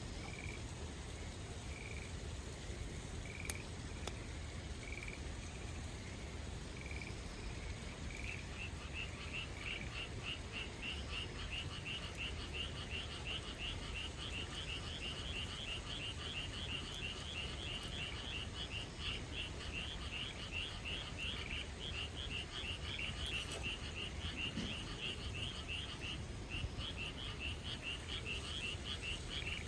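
Frogs calling in chorus: single calls about once a second at first, then from about eight seconds in a dense, fast run of high calls. There is one sharp click a few seconds in.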